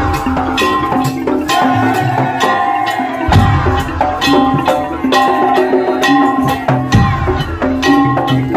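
Madurese tong-tong (ul daul) percussion ensemble playing: dense, rhythmic strikes on wooden and tuned percussion carrying a melody, with heavy drum hits twice in the passage.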